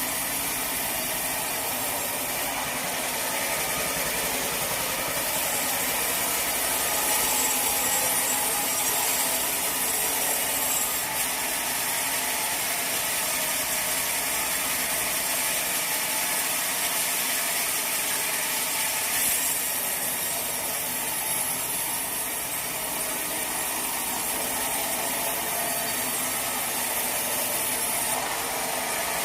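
Sawmill saw running steadily through a teak log, a continuous high, hissing cutting noise over the mill's machinery.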